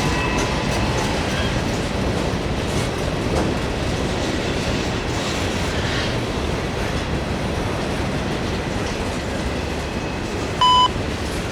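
Long CSX freight train's cars rolling past, a steady rumble of steel wheels on the rails with a faint squeal near the start. Near the end, a radio scanner gives a short beep.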